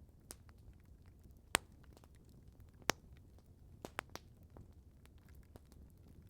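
Wood campfire crackling, with irregular sharp pops and snaps over a soft low rumble. The loudest pop comes about a second and a half in, another near three seconds, and a quick run of three snaps around four seconds.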